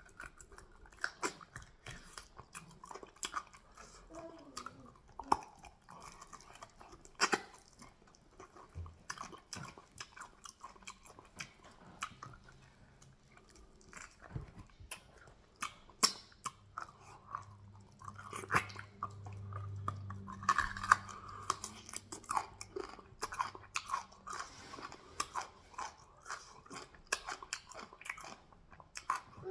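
Close-miked eating: wet chewing, lip smacks and occasional crunching bites of fufu with goat meat and peanut soup, in irregular sharp clicks. A low hum runs for a few seconds past the middle.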